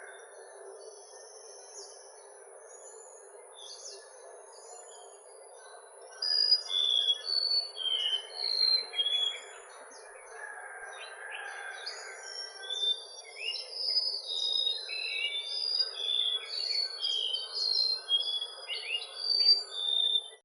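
Golden-bellied gerygones calling: quick series of short, high, whistled notes, many sliding downward. They start in earnest about six seconds in and keep going, over a steady background hiss.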